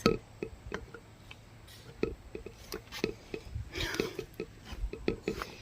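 Small scattered clicks and taps of a hand working a loose wire and a small plastic piece on a small engine, with a brief breathy rustle a little before four seconds.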